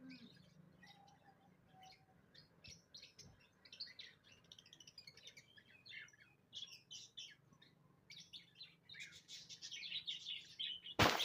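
Small pet birds chirping in short, high twitters, scattered at first and busier in the last few seconds. A brief loud noise cuts in near the end.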